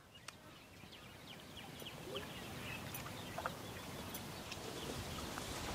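Faint outdoor ambience with scattered short bird chirps and a few small clicks; the background noise slowly grows louder.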